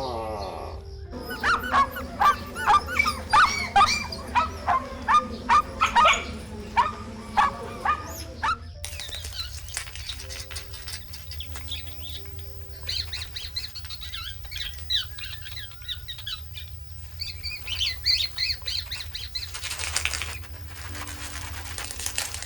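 A rapid series of loud animal calls, about two a second, then after a cut, higher chirping bird calls over soft background music.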